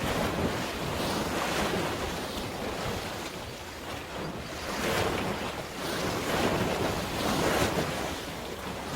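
Sea waves washing in, with wind buffeting the microphone; the rushing noise swells and eases in irregular surges.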